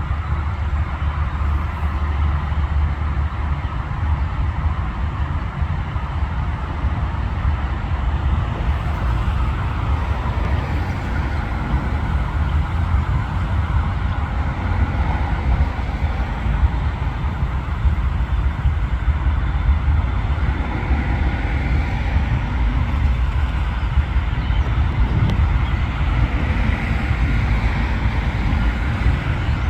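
Freight train with a steady, loud low rumble, unbroken throughout.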